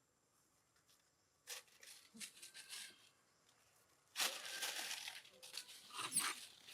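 Crinkling, tearing rustle in irregular bursts, starting about one and a half seconds in and louder and denser from about four seconds in.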